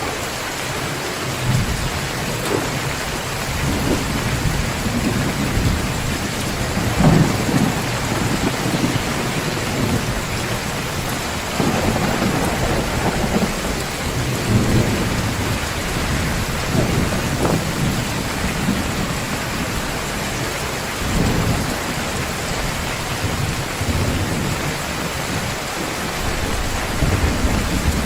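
Heavy rain pouring steadily, with several rolls of thunder rumbling low beneath it, the strongest about seven seconds in.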